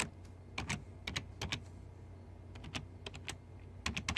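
Keys tapped on a computer keyboard: a dozen or so irregular clicks, several coming in quick pairs.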